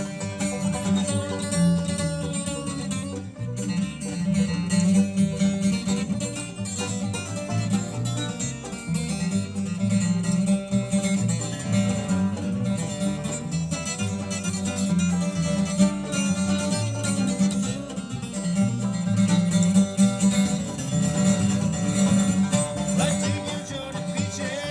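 Bluegrass band playing live, with banjo and guitar picking over a steady bass line.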